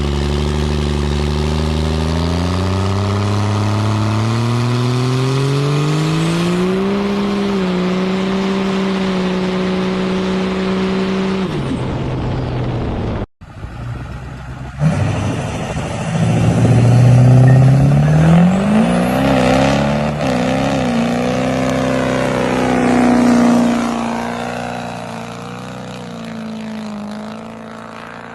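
Diesel truck engine accelerating hard, its pitch climbing steadily and then holding, cut off suddenly about 13 seconds in. Then another diesel truck engine revving up, its pitch rising and wavering, fading near the end.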